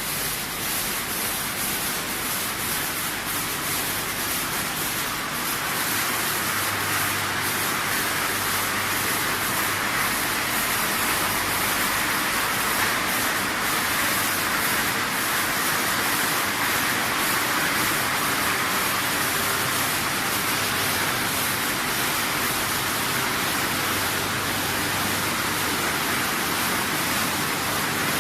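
PET bottle washing and recycling line machinery running steadily: a continuous rushing noise over a low, even machine hum.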